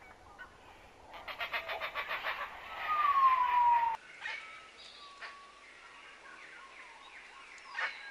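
Bird calls: a rapid pulsing trill, then one loud whistle falling in pitch. About four seconds in the sound changes suddenly to faint scattered bird chirps and a sharp click near the end.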